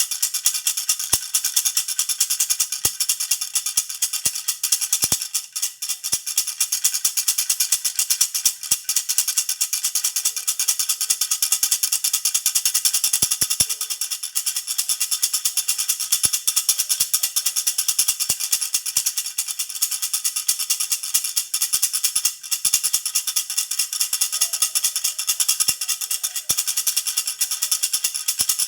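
Handheld jhunjhuna baby rattle shaken continuously and quickly, a dense bright jingling, with a few brief dips in the shaking.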